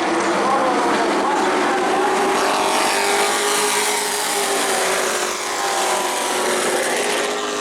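A pack of Pro Truck racing trucks running at speed, several engine notes overlapping and slowly rising and falling in pitch.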